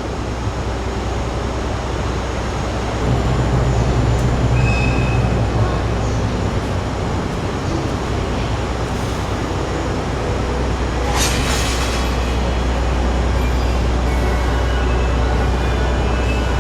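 Train at a station: a steady low running hum that grows louder about three seconds in, with a short hiss about eleven seconds in.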